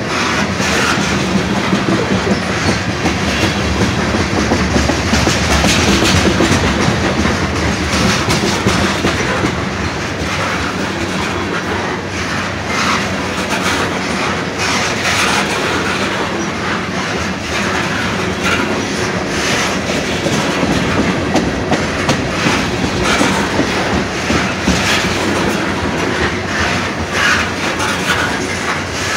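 Norfolk Southern freight train rolling past: a steady rumble with wheels clicking over the rail joints.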